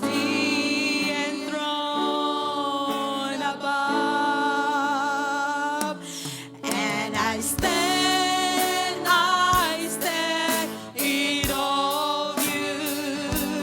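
Worship song being sung: voices hold long, wavering notes, with a few sharp drum-like hits in the second half.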